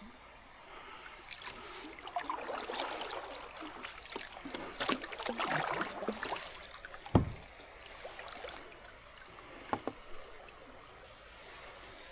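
Kayak paddle strokes splashing the water for several seconds, then one sharp knock about seven seconds in, the loudest sound, and a few lighter knocks a little later.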